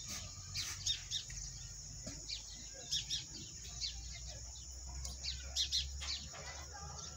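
Small birds chirping in short, repeated calls scattered throughout, over a faint low steady rumble.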